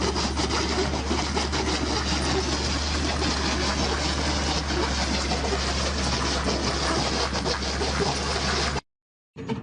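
Noise inside a truck cab on a rough road: a steady low engine drone under road noise and rattling, with many small knocks and jolts. It cuts off abruptly near the end, and a quieter sound follows after a short silence.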